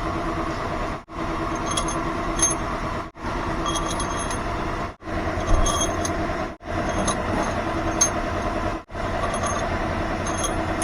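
Light metallic clinks of steel head bolts being set into a diesel cylinder head, over a steady background hum; the sound cuts out briefly every couple of seconds.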